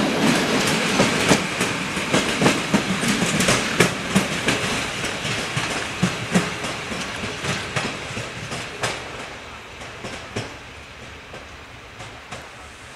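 Wheels of a departing train's coaches clicking over rail joints, a rhythmic clickety-clack over rolling rumble. It fades steadily as the train moves away and thins to a few scattered clicks near the end.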